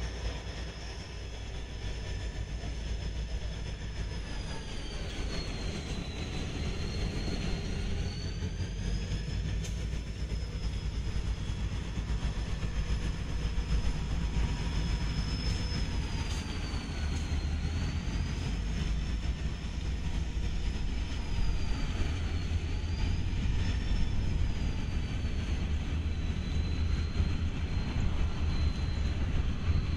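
CSX diesel freight train rolling past: the low rumble of the locomotives and then the freight cars, growing slowly louder. A faint high whine wavers slowly up and down in pitch over it.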